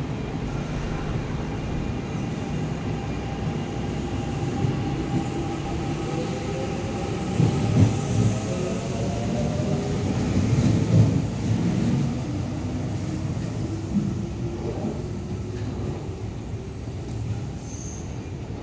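Electric commuter train pulling out of the platform: the traction motors' whine slowly rises in pitch as it gathers speed over a steady rumble, with heavier low thuds of wheels on the track about eight and eleven seconds in.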